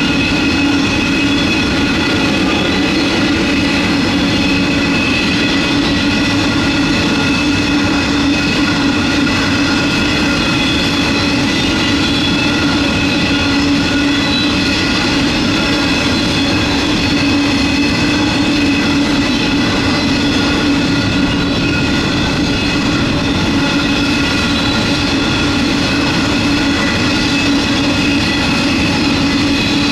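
Loaded coal train of hopper wagons rolling past in a steady, unbroken run: a continuous rumble of wheels on rail with several steady high ringing tones over it.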